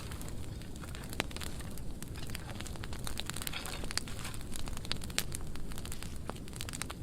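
Burn pile of dry pruning wood burning, with a steady low rumble and many scattered sharp crackles and pops.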